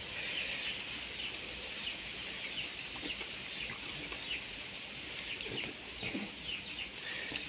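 Birds chirping repeatedly in short, faint calls, with a fowl-like clucking quality, over quiet outdoor background.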